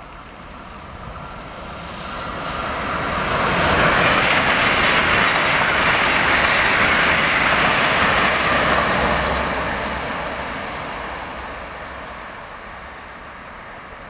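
PKP Intercity Pendolino high-speed electric trainset passing through a station at speed without stopping. A rushing whoosh of wheels on rail and air builds up, is loudest for about five seconds as the train goes by, then fades away.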